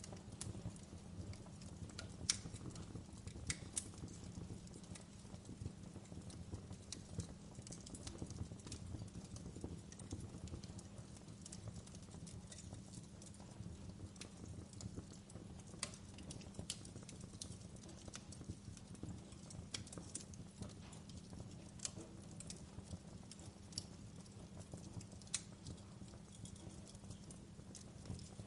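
Wood fire burning in a fireplace: a steady low background with scattered sharp crackles and pops, the sharpest about two seconds in.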